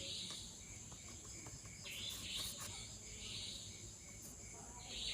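Crickets trilling steadily in the background, with short hissing sounds repeating about once a second.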